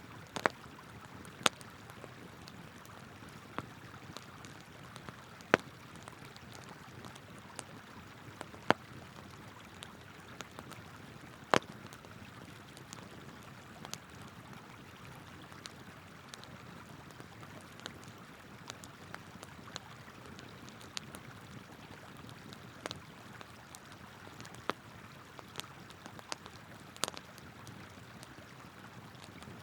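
Wood campfire crackling with sharp, irregular pops, a few much louder than the rest, over the steady rush of a flowing river.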